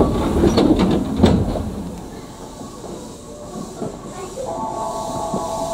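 Tokyu 9000-series electric train heard from the cab: a few sharp knocks in the first second and a half, then a quieter hiss. About four and a half seconds in, the traction inverter's whine starts as a chord of several steady tones as the train draws power and begins to move off.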